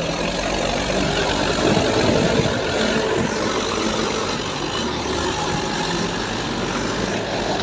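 Mahindra 575 tractor's diesel engine running steadily, a little louder about two seconds in.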